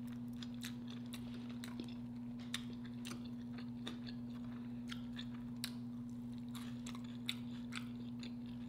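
Close-miked chewing of loaded chili cheese nachos, with scattered sharp mouth clicks and smacks, over a steady low hum.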